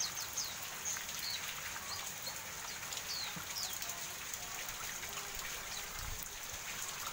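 Pleci (white-eye) making short, high, downward-sliding chirps, scattered every half second or so, over a steady patter of rain.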